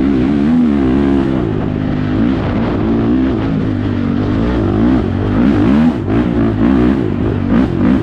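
Honda TRX450R quad's single-cylinder four-stroke engine running through an aftermarket HMF exhaust, revving up and down repeatedly under throttle as it is ridden, with a brief drop about six seconds in.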